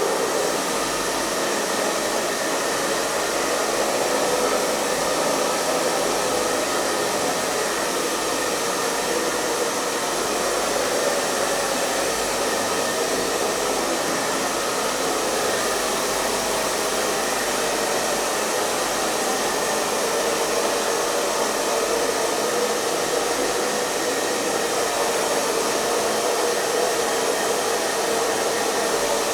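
Electric hair dryer running steadily: an even rush of blown air over the motor's steady hum, with no change in speed.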